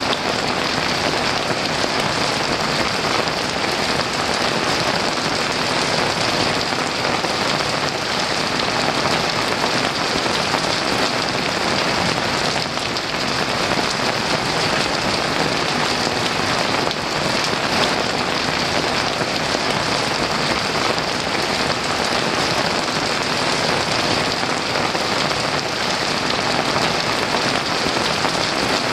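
Heavy rain falling steadily in an even downpour, with no thunder.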